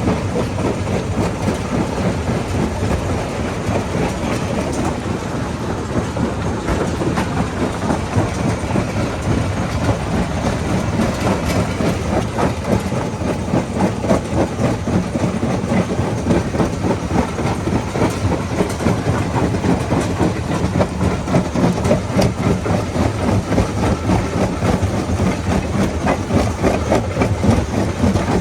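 Rock crusher at work: a steady heavy engine drone under a continual dense rattle and clatter of stone being broken, growing a little louder in the second half.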